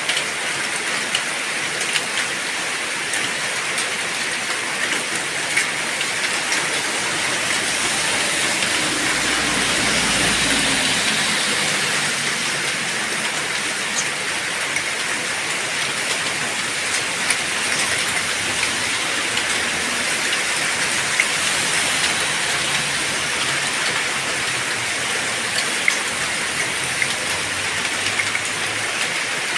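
Heavy rain pouring steadily, with scattered sharp drop ticks. A low rumble swells and fades about ten seconds in.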